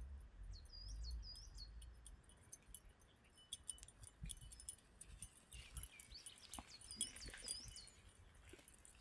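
Faint birdsong: a small bird repeating short, high, hooked chirps, mostly in pairs, over quiet mountain air. A faint low rumble of wind on the microphone dies away after about two seconds.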